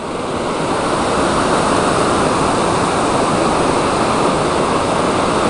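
Sea surf washing over the shore: a steady rushing noise without breaks.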